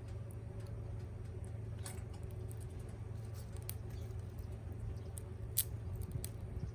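Wood campfire crackling, with scattered sharp pops and ticks (one louder pop a little past halfway) over a steady low hum.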